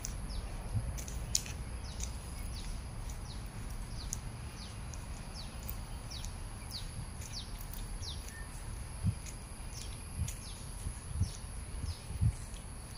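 Birds chirping: many short, quick downward-sliding chirps repeated throughout, over a steady low rumble, with a few soft thumps in the second half.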